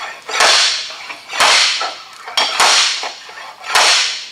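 Slide hammer hooked onto a buckled steel car door, its sliding weight slammed against the end stop four times about a second apart, pulling the dented door lip back out.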